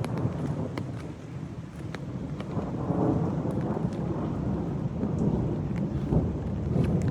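Distant thunder rumbling low and rolling, swelling about halfway through and again near the end, over heavy rain pattering on an umbrella, with single drops ticking sharply on the canopy.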